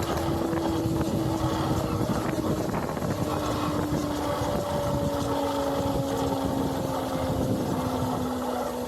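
Honda CBR motorcycle engine running while being ridden, its note easing slowly lower, with wind rushing over the microphone.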